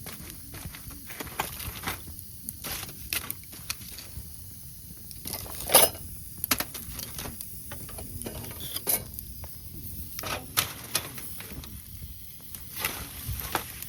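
Irregular light clicks and knocks of camp cookware and utensils being handled, with one sharper knock about six seconds in.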